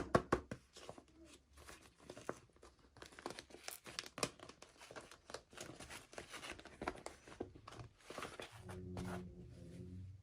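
Packaging crinkling and tearing in quick, irregular crackles as a toy package is opened. About eight and a half seconds in, a low steady drone joins it.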